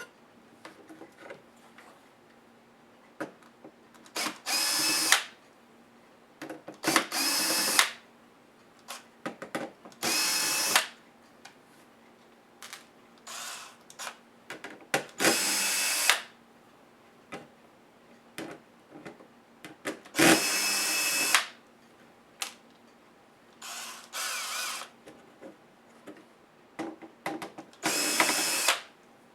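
Small electric screwdriver running in seven short bursts of about a second each, with small clicks and taps between them as laptop screws are taken out.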